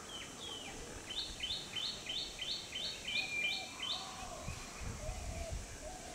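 A bird calls a rapid series of about eight notes, each sliding down in pitch, about three a second. A second, lower-pitched call repeats underneath through the second half.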